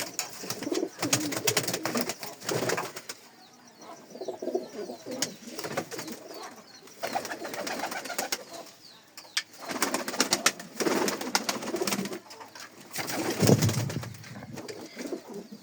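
Teddy pigeons cooing in repeated bouts every few seconds, mixed with scattered sharp clicks and flutters.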